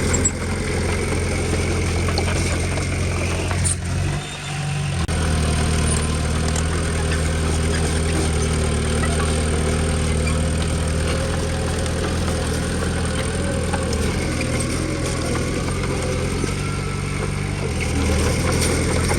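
Komatsu D20P bulldozer's diesel engine running steadily, its note dipping briefly about four seconds in.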